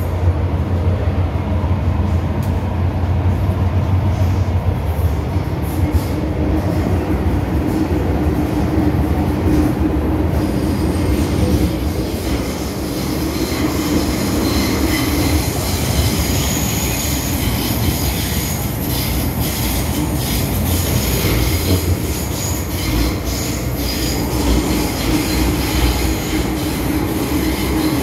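MTR M-Train electric multiple unit running along the Island Line, with a steady low rumble of wheels and motors. From about ten seconds in, high-pitched wheel squeal and clicking join the running noise.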